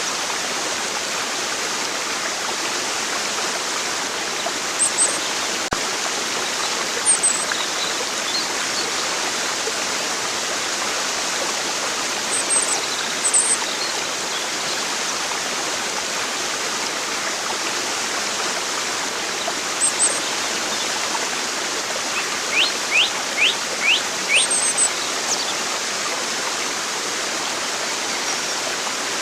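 Steady rushing of a stream, with short, very high bird chirps now and then and a quick run of five downward-sweeping notes a little past the middle.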